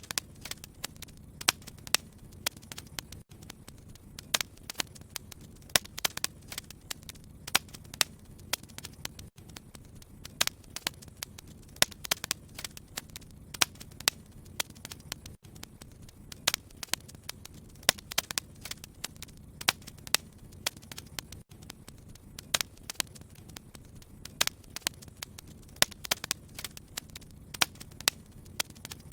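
Wood fire crackling in a fireplace: frequent sharp, irregular pops and snaps over a low steady rumble.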